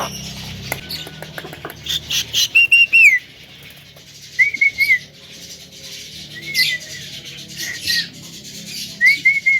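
Javan myna (jalak kebo) calling: a run of clicks and harsh raspy notes in the first few seconds, then short whistled phrases that drop in pitch at their ends, repeated every second or two.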